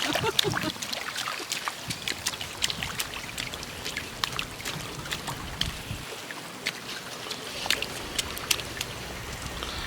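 Water pattering and dripping: many irregular sharp drops and taps over a faint steady wash of water.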